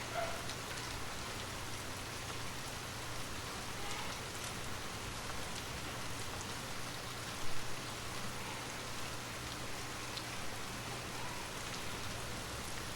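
Steady rain ambience, an even hiss of rainfall on a surface, with one brief louder sound about halfway through.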